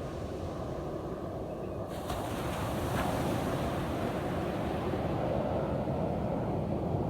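Ocean surf washing on a sandy beach, a steady rush of water that swells and grows louder about two seconds in.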